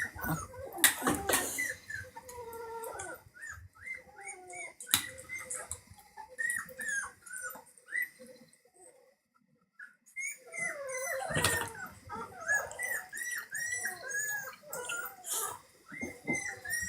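Dog whimpering: many short, high squeaky whines in quick succession, with a pause of about a second near the middle and a few sharp knocks.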